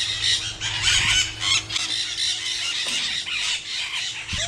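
Many birds calling over one another in a dense, continuous chatter of high chirps and squawks.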